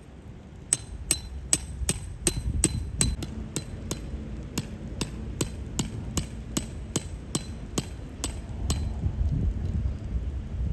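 Hammer driving a metal tent stake, about twenty blows in quick succession that stop near the end. Some blows ring briefly and metallically. A steady low rumble runs underneath.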